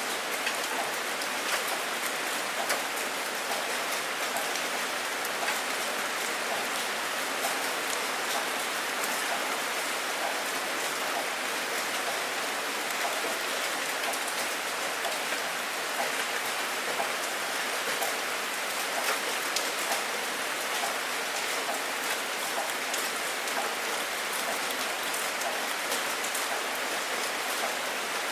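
Steady rain falling on a surface, a dense even hiss with many small drop taps.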